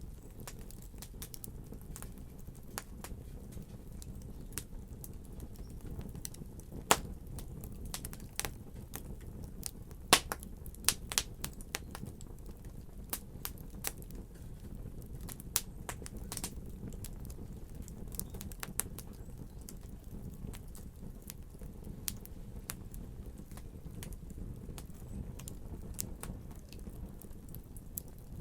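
Fire crackling: irregular sharp pops and snaps over a low steady rumble, with a few louder pops about seven seconds in and a cluster of them around ten to twelve seconds in.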